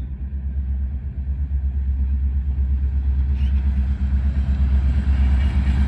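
EMD diesel locomotive engine running with a deep, steady rumble that grows gradually louder.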